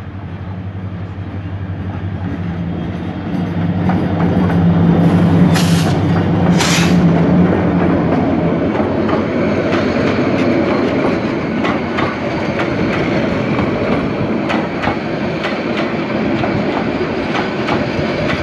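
Bangladesh Railway diesel-electric locomotive approaching and passing close by, its engine hum growing louder, with two sharp bangs about a second apart as it goes past. Then its intercity coaches roll by with a steady clickety-clack of wheels over the rail joints.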